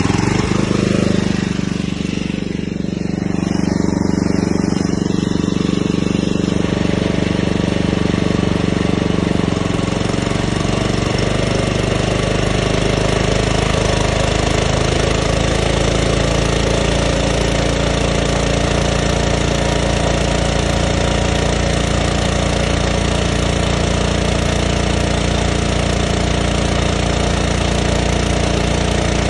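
An engine running steadily after starting. It comes up in the first second or so, then holds at a constant, loud level.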